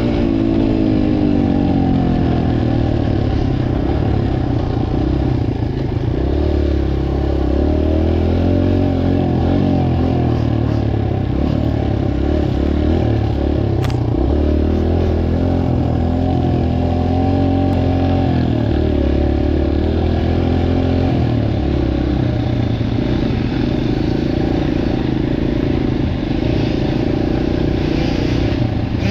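Dirt bike engine running under way: its pitch drops at the start, then rises and falls repeatedly as the rider works the throttle and gears. There is one sharp click about halfway through.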